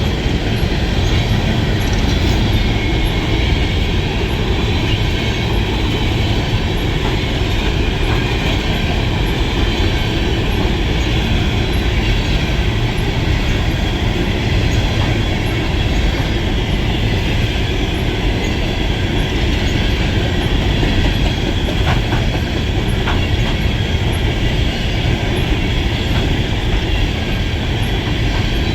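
Empty coal hopper cars of a BNSF freight train rolling past: a loud, steady rumble and clatter of steel wheels on the rails, with a faint high squeal of wheels running over it.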